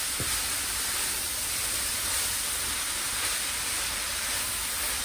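Grated carrots sizzling steadily in hot ghee in a pan, stirred with a wooden spatula: the raw carrot is being sautéed in ghee to cook off its raw smell.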